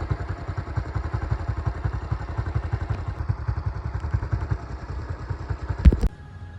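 Motorcycle engine idling with a rapid low putter, a single loud thump near the end, after which the sound cuts off.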